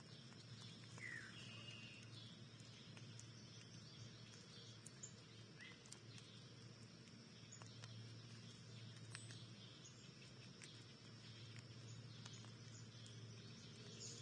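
Faint backyard ambience with a low steady hum, a few short distant bird chirps (one falling in pitch about a second in) and scattered faint clicks.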